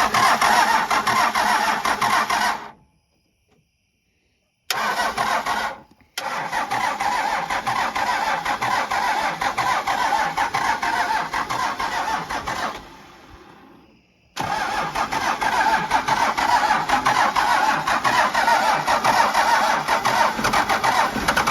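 Starter cranking a 1993 Dodge Ram's 5.9 12-valve Cummins turbo diesel that has sat for years, in four separate stretches with short breaks between, turning over without catching.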